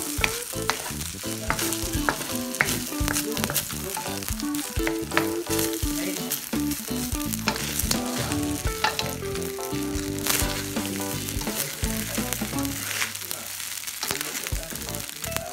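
Fried rice with shrimp and chicken sizzling in a hot wok, a spatula stirring and tossing it with frequent sharp scrapes and clicks against the pan. A soft melody of background music plays underneath.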